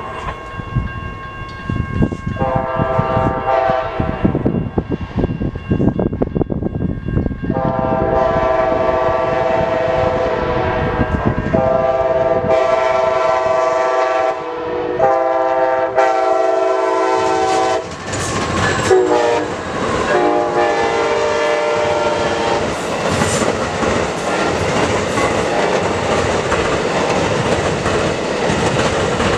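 Locomotive air horn sounding four long blasts as a train approaches, the last one dropping in pitch as the locomotive goes by. Then the train passes close by, a loud steady rumble of cars with wheels clacking over the rail joints.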